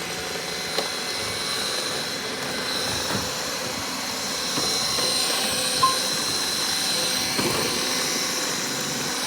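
Robot vacuum cleaner running steadily, its fan and brushes giving a continuous whir with a thin high whine, with a couple of short clicks about one and six seconds in.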